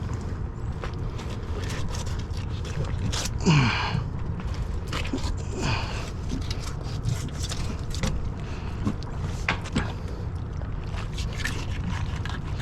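Scattered knocks, clicks and scrapes of handling on a fishing boat's deck over a steady low rumble, with a brief vocal sound about three and a half seconds in.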